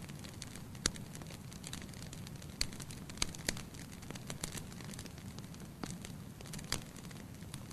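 Fire in a fireplace crackling: irregular sharp pops and snaps over a low steady rumble of the flames.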